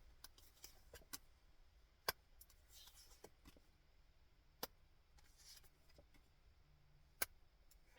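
Quiet handling of tarot cards: a few sharp clicks and taps, the loudest about two seconds in, just before five seconds and about seven seconds in, with soft rustles between them.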